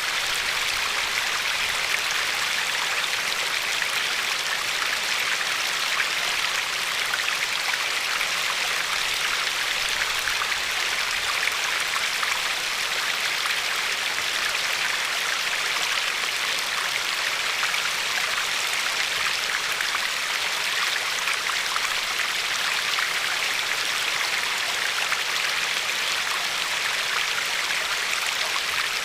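River water flowing and lapping along a pebble shore: a steady rushing hiss with fine splashing that stays even throughout.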